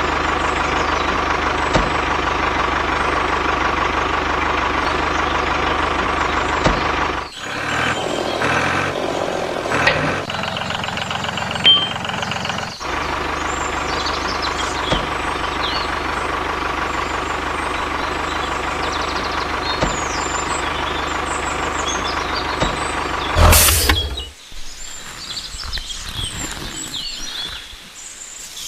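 Tractor engine running steadily, with abrupt breaks about seven and thirteen seconds in. A loud knock comes near the end, after which the engine stops and faint bird chirps remain.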